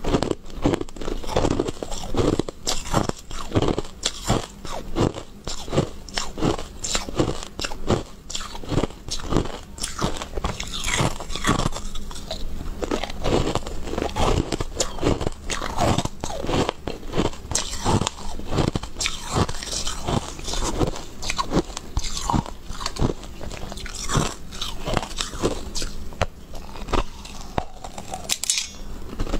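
Close-miked biting, crunching and chewing of hard, frosty white balls, with many sharp crunches in quick succession.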